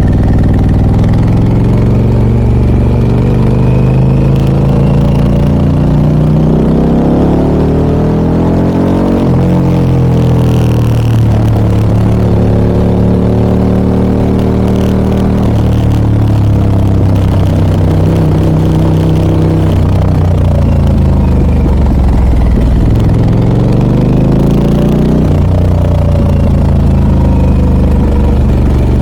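Harley-Davidson Pan America 1250 Special's Revolution Max V-twin, through an aftermarket Scorpion exhaust, under way. Engine pitch climbs under acceleration and drops at gear changes about nine, fifteen and twenty-five seconds in, holding steady between.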